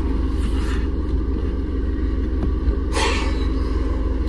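Car engine idling, a steady low rumble with an even pulse heard inside the cabin. A short hiss comes about three seconds in.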